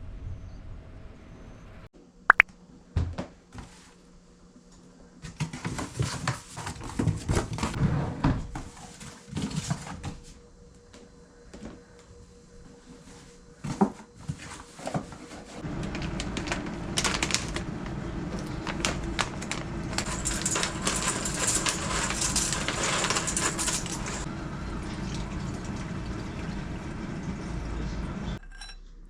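Kitchen work: dishes and utensils knocking and clinking in scattered clicks, then about twelve seconds of steady rushing noise mixed with clinks, which stops abruptly near the end.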